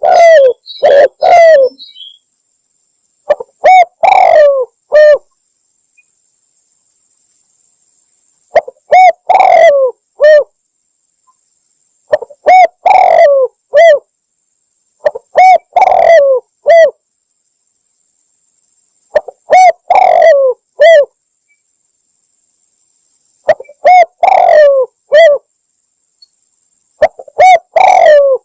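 Spotted dove (tekukur) cooing loudly: a phrase of several falling coos repeats about every three to four seconds, with silent gaps between, eight phrases in all.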